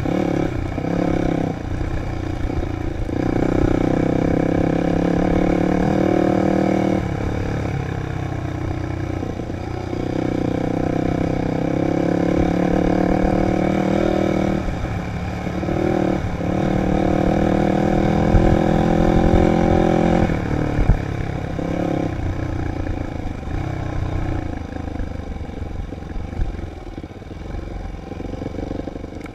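Dirt bike engine running under a rider on a trail, its pitch rising and falling as the throttle opens and closes and gears change, over a heavy low rumble, with a couple of sharp knocks partway through.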